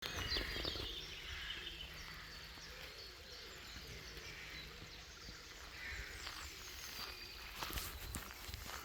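Several small birds singing and chirping in short phrases over a low rumble of wind or handling noise, with a few sharp clicks near the end.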